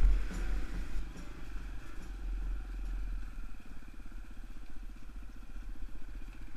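Motorcycle engine running steadily, its even firing beat growing clearer about two seconds in, over a low rumble.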